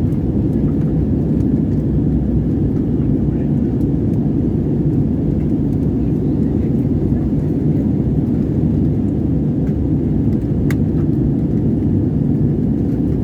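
Airliner cabin noise in flight: a steady low rumble of engines and airflow, with a single faint click near the end.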